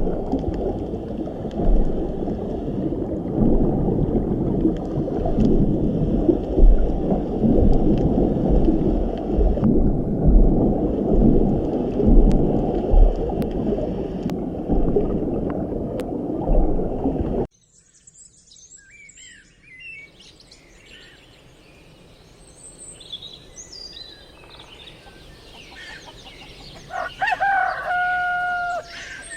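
A loud, low, steady rushing noise that cuts off abruptly after about seventeen seconds. It gives way to quiet bird chirps, with a louder call lasting about a second and a half near the end.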